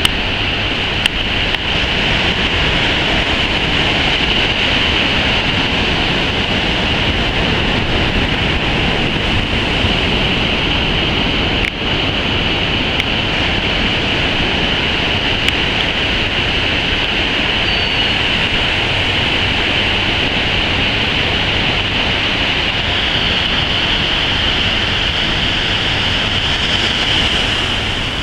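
Steady wash of ocean surf with wind buffeting the microphone, an even noise without breaks.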